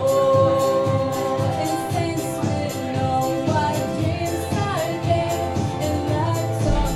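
A woman singing a country song over accompanying music with a steady beat, starting on a long held note.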